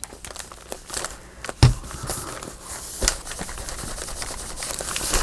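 Paper rustling and crinkling as journal pages and paper scraps are handled, with many small clicks and a sharp knock about a second and a half in and another about three seconds in.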